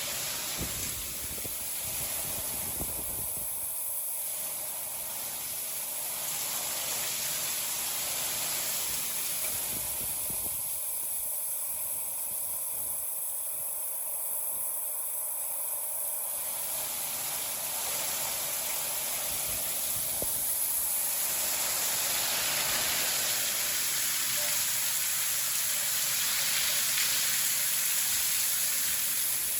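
Steady hiss of heavy storm rain and wind. It eases for a few seconds partway through, then builds again toward the end.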